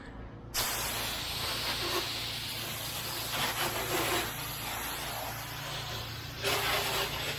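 Pressure-washer wand spraying a jet of water, starting suddenly about half a second in as a steady hiss, with a louder stretch near the end.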